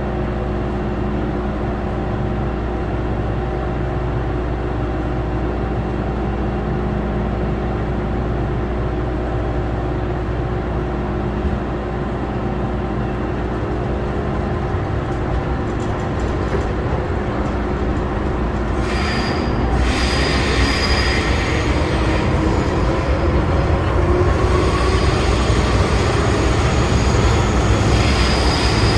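MTR M-Train running on the rails with a steady hum and rolling noise. From about two-thirds of the way in, high-pitched wheel squeal comes and goes and the train grows a little louder.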